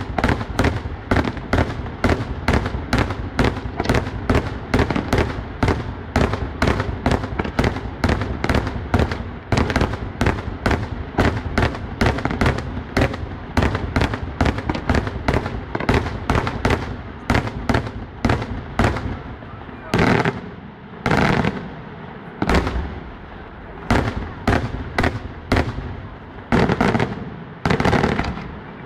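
Fireworks going off in a rapid, steady string of sharp bangs, about three a second. From about twenty seconds in, the bangs come slower, heavier and roughly a second apart, each with a ringing tail.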